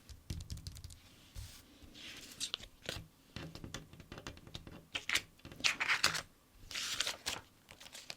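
Stickers peeled from their backing sheet with short crisp ripping sounds, among quick light clicks and taps of fingertips and paper on a sticker book page. The loudest peels come in a cluster between about five and seven and a half seconds in.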